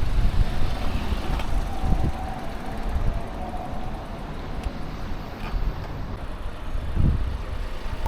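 Outdoor road noise: a low rumble of passing traffic with wind buffeting the microphone, loudest in the first two seconds and then easing off.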